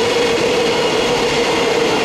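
Container flatcars of a freight train rolling past close by: a loud, steady rumble of wheels on rail with a steady whine running through it.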